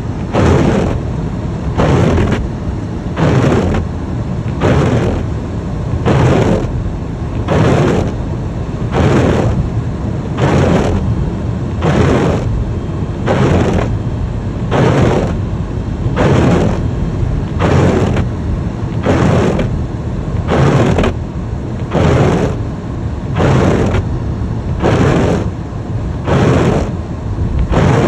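Car windshield wipers sweeping fast and evenly, a swish a little faster than once a second, over the steady rumble of the car driving on a snowy road.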